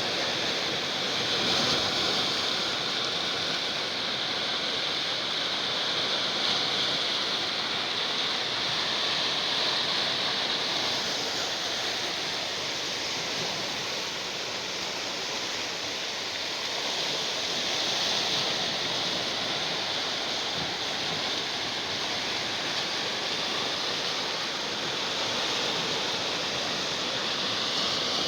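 Sea waves washing onto the shore: a steady surf hiss that swells and eases every several seconds.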